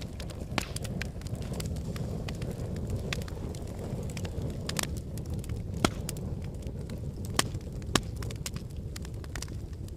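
Wood fire burning in a fireplace: a steady low rumble of flames with irregular crackles and sharp pops from the burning logs, a few louder pops in the second half.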